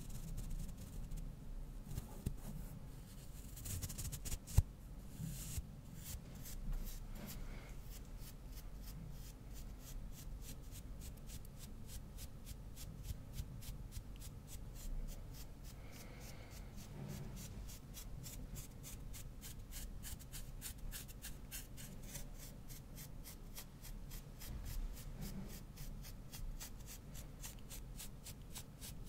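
A brush stroked quickly back and forth across a microphone, its bristles scratching in a fast even rhythm of several strokes a second. There is one sharp knock against the microphone a few seconds in.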